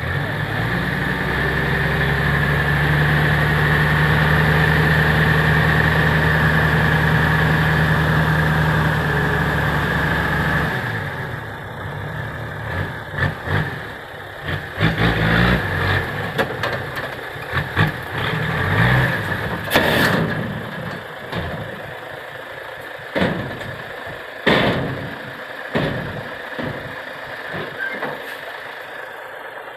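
Six-wheel dump truck's diesel engine running at steady raised revs. About eleven seconds in it drops back to a quieter idle, and a string of irregular knocks and clunks follows.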